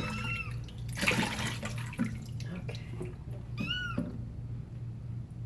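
Young kitten meowing twice during a bath, in protest at being washed, with water splashing about a second in.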